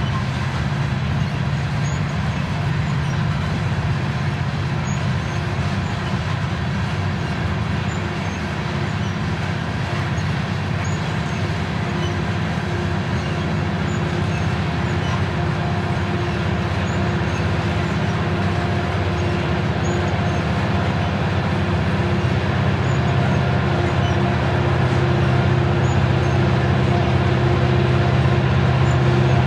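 Coal train's hopper cars rolling past: a steady rumble of steel wheels on rail with a low hum, growing slightly louder near the end.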